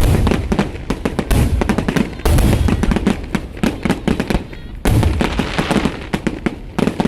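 Aerial fireworks barrage: shells bursting in rapid, dense succession with crackling between the bangs, swelling into heavier volleys about two seconds in and again near five seconds.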